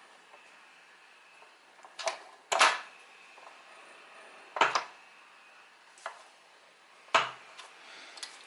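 Parts of an electronic drum pad being handled during disassembly: about five separate knocks and scrapes, the loudest and longest a little over two seconds in.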